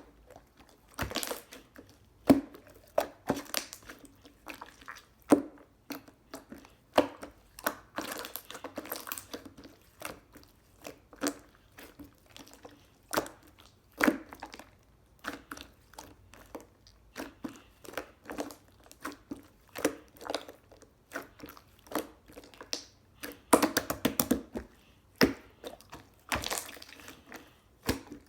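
Gold pearl slime squished, pressed and stretched by hand, giving irregular wet pops, clicks and short crackling stretches.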